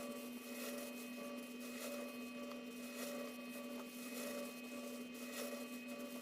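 Steady electrical hum with several fixed tones, with faint soft swishing noises over it.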